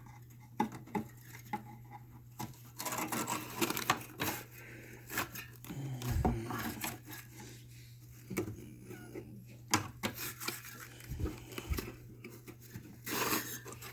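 Handling noises from the air conditioner's filter and casing: scattered irregular clicks, small knocks and rustles, over a steady low hum.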